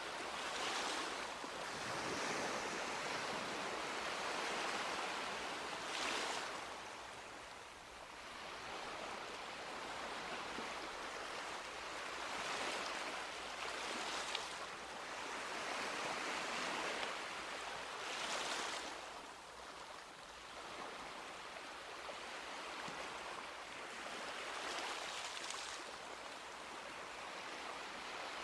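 Small sea waves breaking and washing up a beach, each wave a brief rising hiss of surf that falls back into a steady wash, a few seconds apart.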